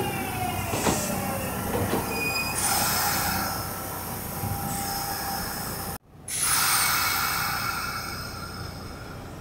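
Kintetsu electric commuter train moving along the platform with high squealing wheels over a steady rumble, and a falling motor whine in the first couple of seconds. About six seconds in the sound cuts out for a moment, then returns and slowly fades.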